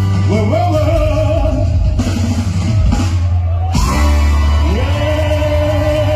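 A singer holding long notes over a rock band with bass, drums and guitar; each of the two notes is reached with an upward slide, the second beginning about four and a half seconds in.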